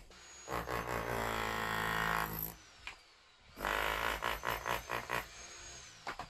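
A motor-driven power tool running in two bursts, the first steady for about two seconds, the second about a second and a half long and pulsing as it works.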